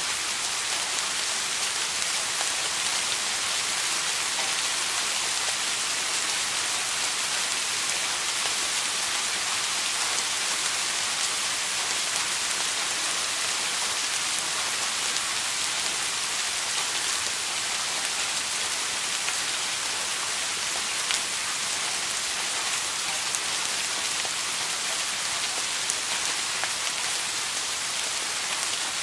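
Steady rain falling, an even hiss with faint scattered drop strikes.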